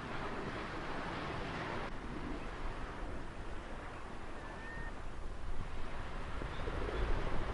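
Ocean waves washing on a shore: a steady rush of surf that swells and eases, with a low rumble near the end.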